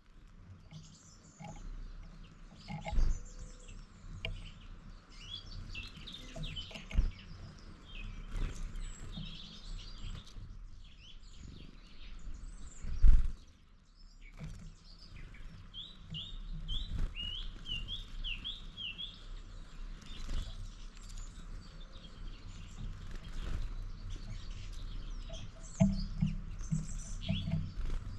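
Small birds chirping and calling, with a run of about eight quick notes about halfway through. A few sharp knocks break in, the loudest about thirteen seconds in.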